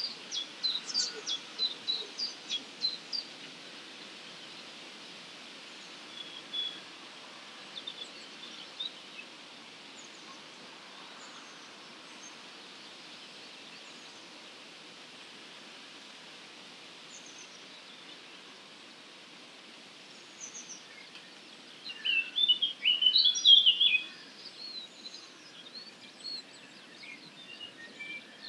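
Wild songbirds singing in the early-morning chorus over a steady faint background hiss. A quick run of short high notes comes at the start, then sparse faint chirps, then a loud burst of jumbled twittering a few seconds before the end.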